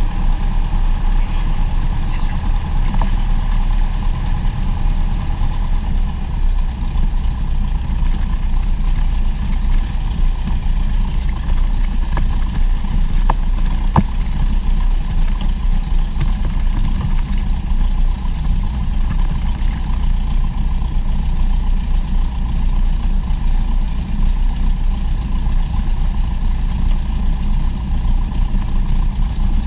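Steady drone of a propeller aircraft's engines heard inside the cabin in flight, with a brief click about halfway through.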